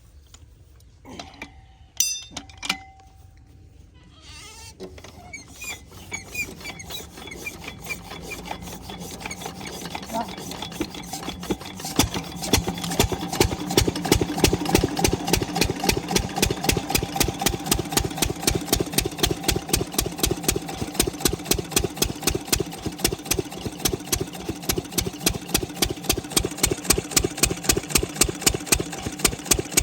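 Diesel engine of a farm water pump set starting up: a few knocks, then an even beat of firing strokes that builds from about five seconds in, grows louder and settles into a steady run by about twelve seconds.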